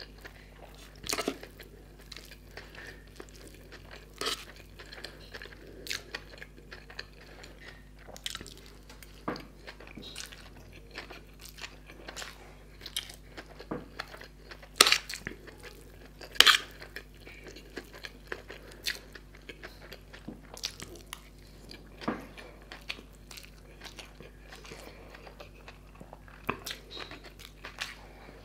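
Close-miked chewing and crunching of Schezwan fried noodles eaten with a fork from a steel plate, with scattered sharp clicks throughout, the two loudest about halfway through.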